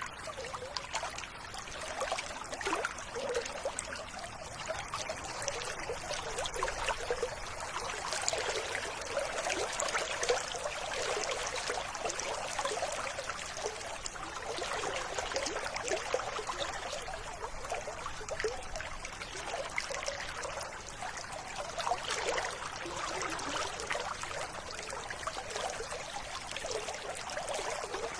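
River water running and trickling steadily, a light, even splashing flow without deep rumble.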